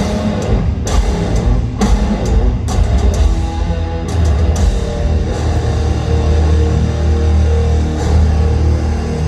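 Heavy metal band playing live: distorted guitars and drums, with heavy hits landing about once a second for the first four seconds, then a long, held low chord ringing out.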